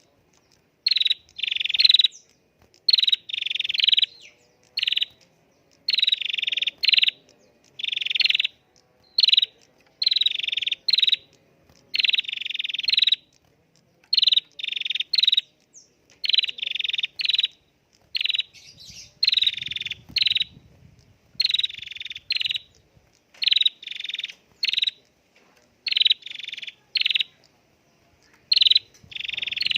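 Prenjak (prinia) singing: a long run of short, loud, chirping phrases, about one a second, with brief gaps between them.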